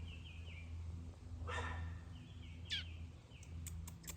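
Adult bird calling close by a fallen fledgling: runs of short, quick chirps, a louder harsh call about a second and a half in, and a fast downward-sliding call near three seconds, the parent's agitated calling at an intruder. A low steady hum runs underneath.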